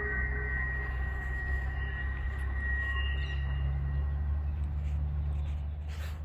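Norfolk Southern freight train rolling away into the distance: a steady low rumble with a thin high whine in the first few seconds.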